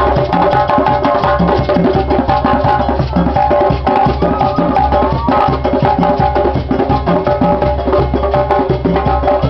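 Percussion music for Balanta dance: drums and sharp, wood-like strikes played in a fast, steady, driving rhythm.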